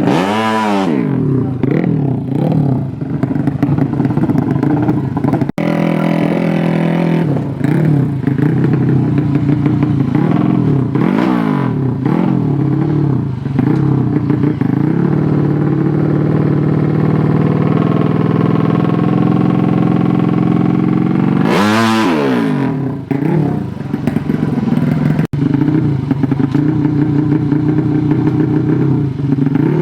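Drag-racing motorcycle engines revving hard, their pitch sweeping up and down, in several clips joined by two abrupt cuts.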